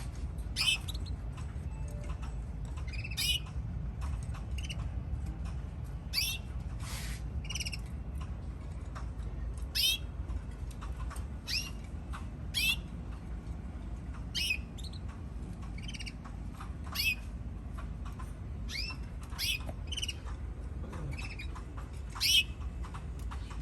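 Canaries calling: short, sharp chirps, each a quick downward sweep, coming one at a time every second or so rather than as continuous song, over a steady low hum.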